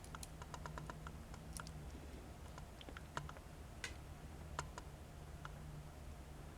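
Faint, irregular light clicks and taps of a small die-cast toy tractor being handled and turned in the hands, over a steady low hum.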